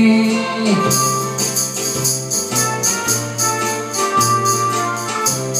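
Instrumental backing music with organ-like electronic keyboard chords over a held bass line, and a light jingling beat on top.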